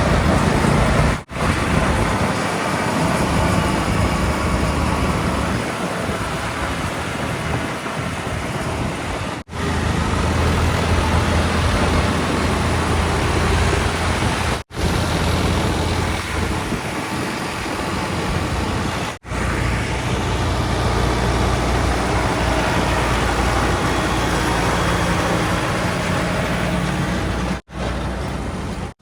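Heavy diesel engines of earthmoving machinery running steadily with a low hum. The sound cuts out briefly and abruptly about five times.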